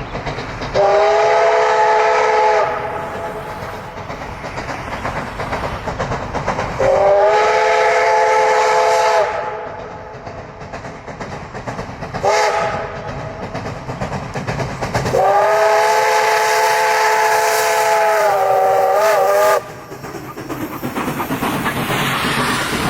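Steam locomotive whistle, a multi-note chime, blown in a long, long, short, long pattern, the standard signal for a grade crossing. Between the blasts the train's running rumble and hiss can be heard, and the last long blast wavers in pitch just before it cuts off.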